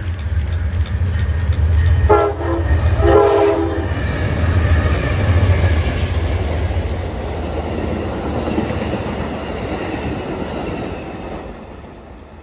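Amtrak passenger train passing with a heavy diesel rumble, its horn sounding two short blasts about two seconds in. The rolling noise of the cars carries on after the locomotive and fades away near the end.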